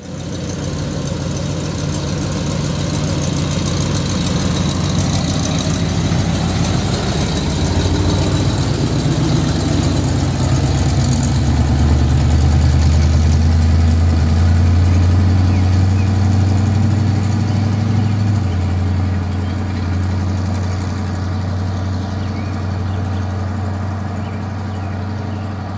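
1973 Chevrolet ramp truck's engine running on a road test, its pitch climbing over roughly the first ten seconds, then holding steady and stepping down a little about 18 seconds in.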